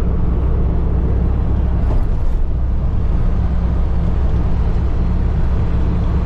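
Motor vehicle driving: a steady low engine drone with road noise.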